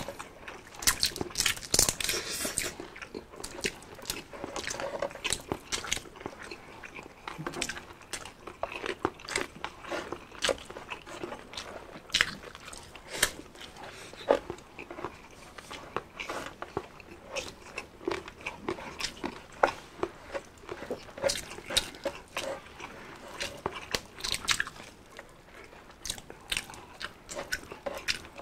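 Close-miked eating sounds: crunching bites and chewing of crispy fried food, with many sharp irregular crackles throughout.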